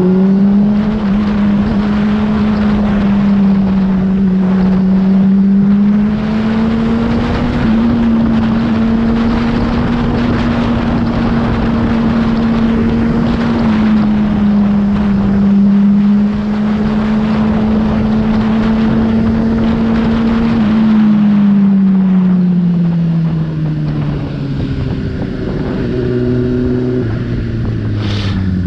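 Motorcycle engine running at a steady cruising speed with wind rushing over the helmet microphone. The engine note falls steadily over the last several seconds as the bike slows down.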